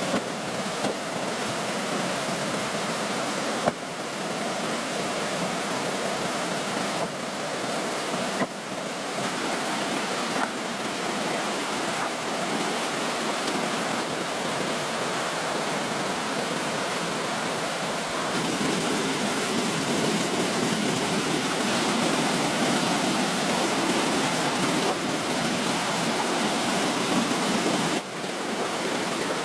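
Steady rushing of water, with brief dips where the sound is cut about four, eight and a half and twenty-eight seconds in; it grows a little louder past the middle.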